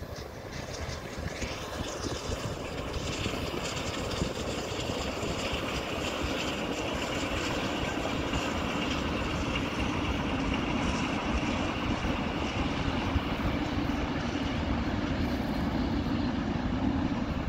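Moving train heard from inside a passenger carriage hauled by the Beyer-Garratt 6029 steam locomotive: steady running noise of wheels on rails that grows louder over the first several seconds.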